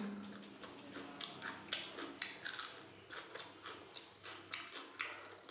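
A person chewing and crunching raw cucumber slices close to the microphone, with irregular wet crunches several times a second.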